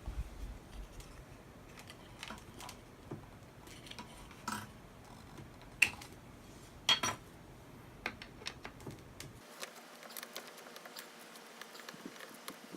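Scattered metallic clinks and clicks of engine parts and hand tools being handled during assembly, with two louder clanks about six and seven seconds in.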